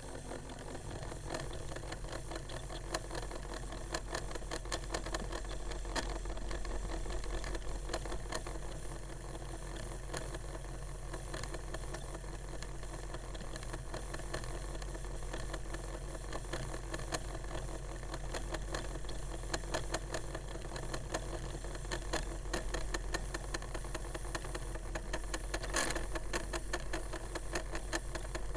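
A 1980s-era Discman portable CD player's disc motor whirring and rattling with a steady stream of fast ticks as it keeps trying to spin the disc up to speed and never gets there, short of power. One sharper click comes near the end.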